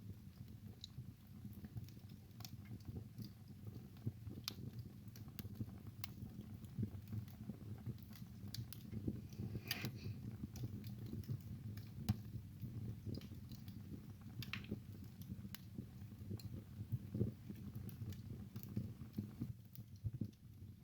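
Wood fire burning in a fireplace: a low steady rumble under irregular crackles and pops, with a few sharper pops around the middle.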